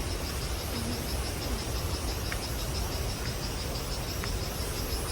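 Insects chirping in a steady, rapid high pulsing rhythm of several pulses a second, over a low rumble.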